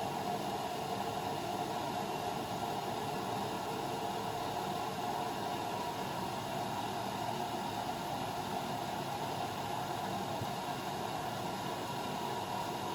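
Blomberg WAF 7442 SL washing machine running: a steady, even noise with a faint low hum and no knocks or changes.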